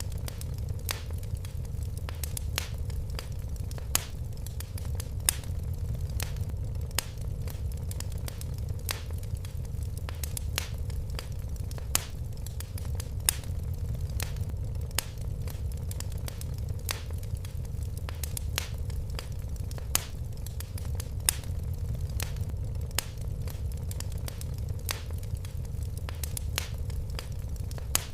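Fire crackling in a fireplace: sharp, irregular pops and snaps, a few each second, over a low steady rumble of the flames.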